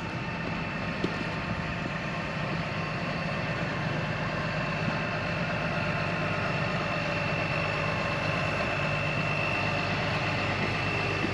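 An engine idling steadily, with a thin high whine held throughout; it grows slowly louder.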